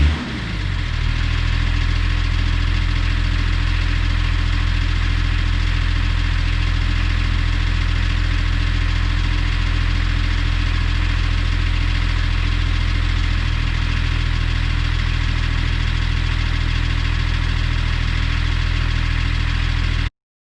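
BMW E34 525 TDS's M51 2.5-litre straight-six turbodiesel running on a cold start. Its pitch falls from a brief rev back to idle at the start, and it then idles steadily.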